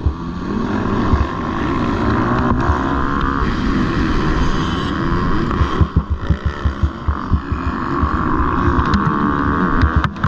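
MX2 motocross bikes racing, their engines revving up and down continuously, with wind buffeting the microphone in places.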